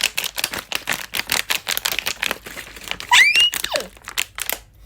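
Plastic water bottle crinkled rapidly in the hands: a dense crackling meant to imitate rain. About three seconds in, a short high squeal glides up and down over it.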